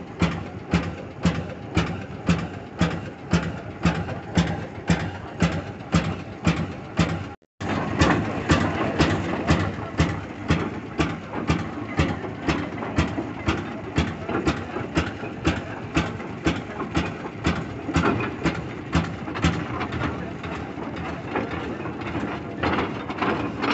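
Antique tractor or stationary gas engine running, its exhaust firing in steady, even beats about two to three a second. After a sudden cut about a third of the way in, a busier, faster engine beat takes over.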